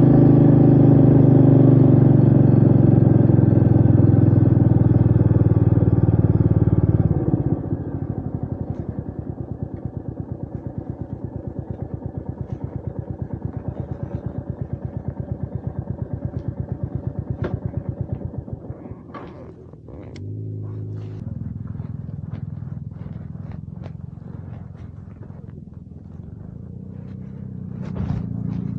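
Royal Enfield Meteor 350's single-cylinder engine running loud and steady, then about seven seconds in the throttle closes and it drops to a quieter, evenly pulsing thump. Later it settles to a softer steady run with a few sharp clicks.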